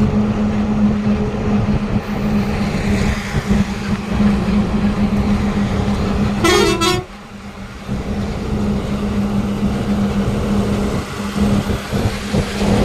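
Modified truck's engine running with a steady low hum, and one short horn blast about six and a half seconds in.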